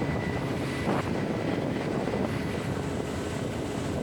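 Motorboat engine running steadily, with the rush of wind and water around the boat.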